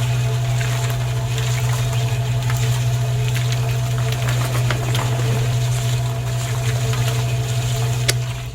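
A small electric motor runs steadily with a constant low hum, a noisy whir and scattered ticks and rattles. It stops abruptly at the very end.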